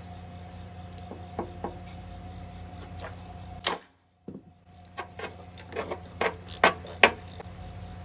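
Sharp metal clicks and knocks of a ratchet and 3/8-inch socket working a mower engine's oil drain plug, coming in an irregular run in the second half, over a steady background hum. The sound cuts out completely for about half a second just before four seconds in.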